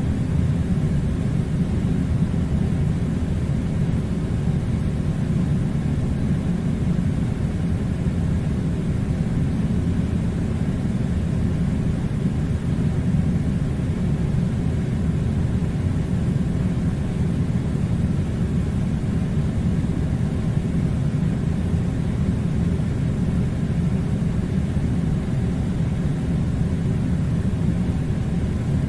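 Air conditioning running: a steady low rumble with a fainter hiss above it, unchanging throughout.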